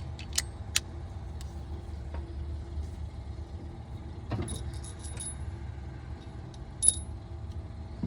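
Steel socket tools clinking and ringing against each other and against metal: a handful of sharp clinks, the loudest near the end. A steady low hum runs underneath.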